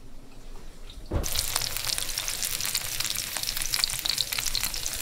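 Peeled eggplant halves sizzling and crackling in hot oil in a frying pan, starting suddenly about a second in with a dense patter of fine pops.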